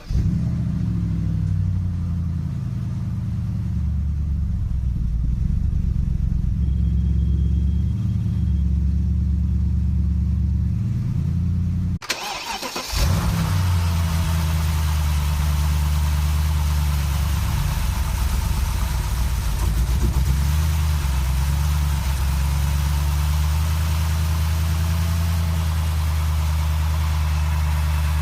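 BMW N62 4.8-litre V8 running with its speed fluctuating: the engine note wavers up and down, the idle-speed hunting the owner is showing as a fault. About twelve seconds in, the sound dips briefly and comes back brighter and steadier.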